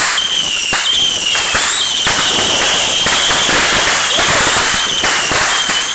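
Consumer fireworks going off: a dense run of bangs and rapid crackling, thickest in the middle, over a steady high whistle.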